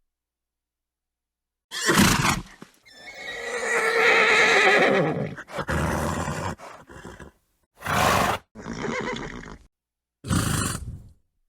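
Horse neighing in one wavering call lasting about two and a half seconds, with a short snort just before it and a string of short snorts and blows after it.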